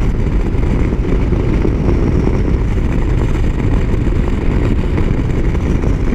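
Motorcycle riding at road speed: the engine running under a steady low rumble of wind on the microphone.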